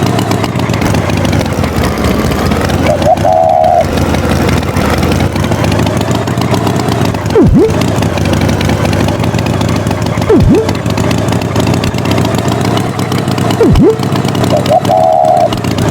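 Engine sound of an animated farm tractor running steadily. Several sharp swooping effects drop low and spring back up, and a short warbling tone comes twice, near the start and near the end.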